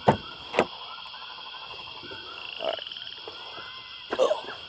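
A steady outdoor chorus of high, repeated animal calls, with two sharp knocks in the first second and a brief louder clatter near the end.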